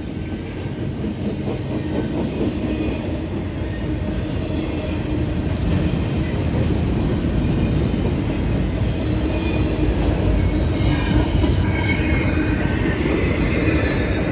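Train passing by on the tracks, its sound growing louder through the first half and then holding steady.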